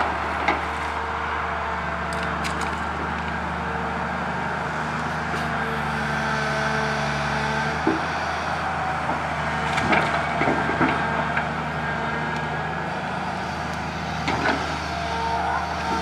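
Komatsu PC200 excavator's diesel engine running steadily, with occasional sharp cracks and snaps of branches being grabbed and broken.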